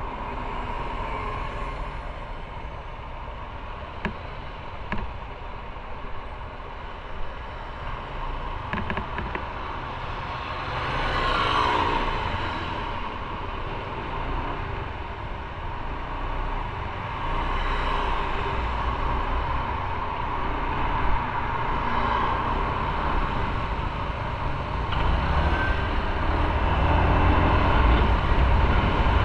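Motorcycle running at road speed, with steady road and wind noise. Another vehicle passes about eleven seconds in, and the low rumble grows louder near the end.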